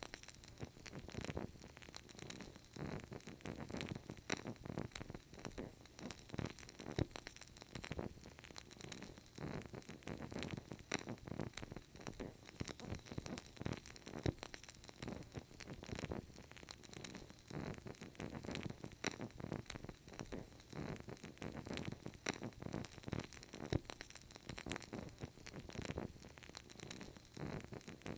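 Burning candle crackling: a continuous run of faint, irregular small pops and sputters.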